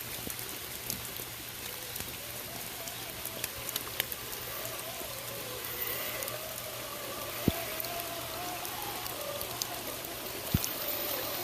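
Small electric motor of a scale RC crawler truck whining, its pitch rising and falling, from about halfway in, over a steady hiss, with a few sharp ticks.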